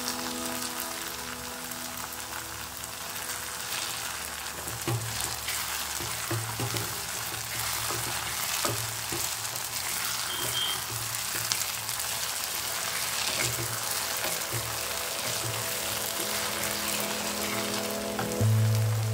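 Chopped okra sizzling as it fries in oil in a pan, stirred and turned with a spatula. Background music is heard briefly at the start and swells up near the end.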